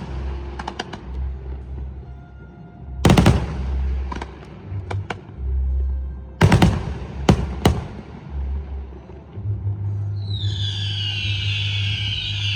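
Aerial fireworks shells bursting: sharp bangs, the loudest about three seconds in and three more in quick succession a little after six seconds, with lighter cracks between. From about ten seconds a dense high hissing crackle sets in, slowly falling in pitch. Music with a low bass hum plays throughout.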